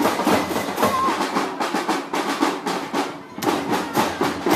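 Marching drum band's drum line playing: rapid snare and drum strokes, with a short dip about three seconds in before the drumming resumes.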